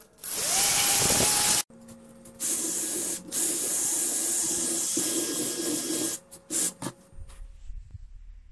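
Handheld power tools grinding and polishing a cast brass mask. A first burst of hiss carries a rising motor tone. After a short pause, a small rotary tool runs steadily for about three and a half seconds, its motor humming under the hiss. A few short bursts follow, and the tool stops well before the end.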